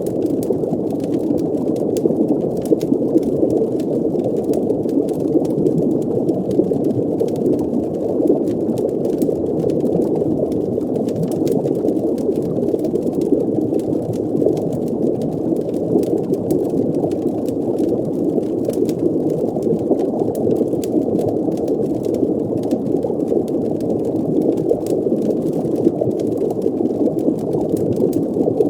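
Steady, muffled underwater ambience: a low, dense rumble of water with bubbling, and faint scattered crackles throughout.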